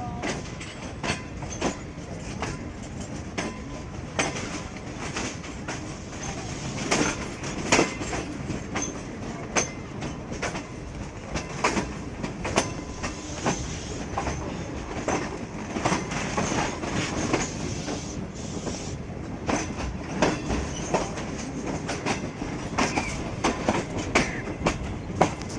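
Passenger train running on the rails, its wheels clacking irregularly over rail joints above a steady rumble.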